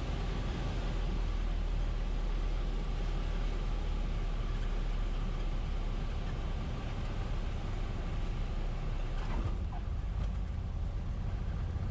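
Piper Cherokee's single piston engine and propeller running steadily, heard from inside the cockpit as a constant drone with hiss.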